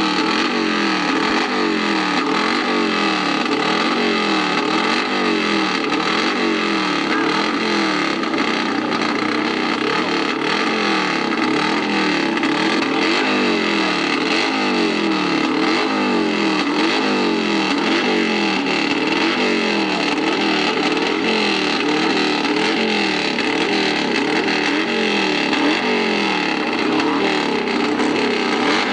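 Hillclimb racing motorcycle engines revving hard, the pitch rising and falling over and over.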